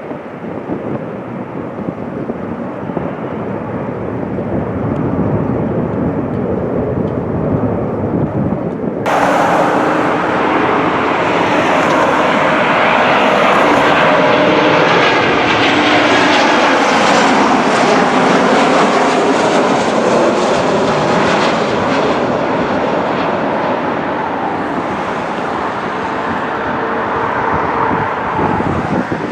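Jet airliner flying low overhead. The engine noise builds to a loud rushing peak with a slightly falling whine, then eases off as the aircraft passes.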